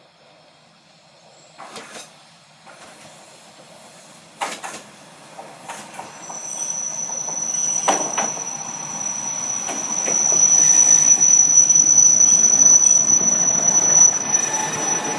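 Isumi Railway diesel railcar pulling into the station, growing steadily louder, with a few sharp clacks early on and a steady high-pitched brake and wheel squeal from about six seconds in that cuts off just before the end as the train comes to a stop.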